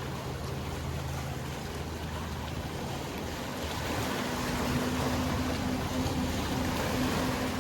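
Boat engine humming steadily over the wash of sea water; about four seconds in, a second, higher engine tone comes in and the sound grows louder.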